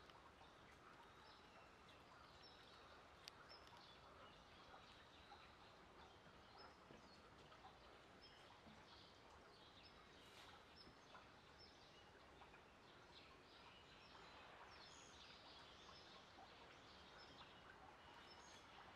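Near silence: faint outdoor ambience with scattered short, high chirps of small birds.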